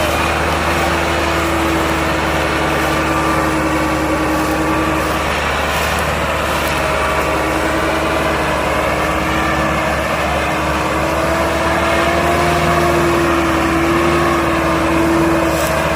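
Tractor engine running at a steady speed: a continuous hum over a low rumble, its pitch drifting slightly down and back up.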